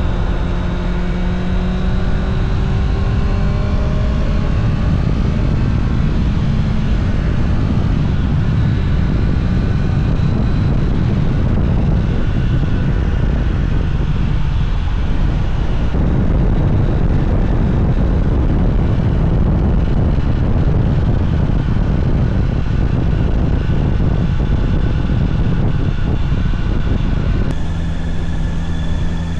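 Honda CBR650R's inline-four engine running under way, its note sliding slowly down over the first several seconds, then largely covered by a steady rush of noise. Near the end the sound changes abruptly to a steadier, clearer engine tone.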